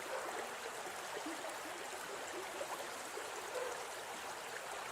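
Water of a small stream flowing steadily, with many small bubbling blips.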